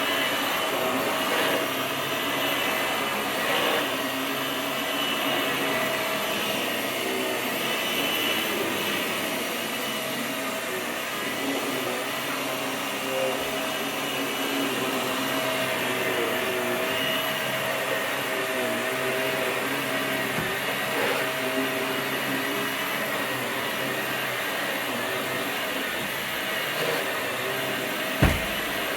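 Vax Air Stretch upright vacuum cleaner running steadily as it is pushed over the floor, its motor holding a constant whine. A sharp knock comes near the end.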